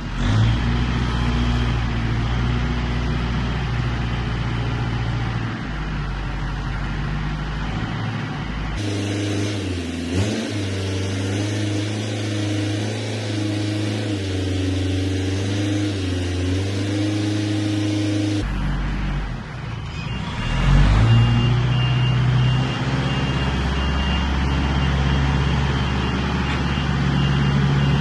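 Motor vehicle engines running steadily, with a sudden change in engine sound about a third of the way in and again about two thirds of the way in.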